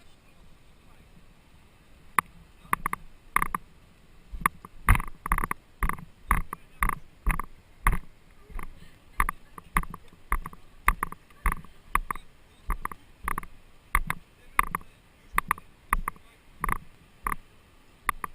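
Kayak paddle strokes in a steady rhythm, a short sharp splash or knock about twice a second, starting about two seconds in.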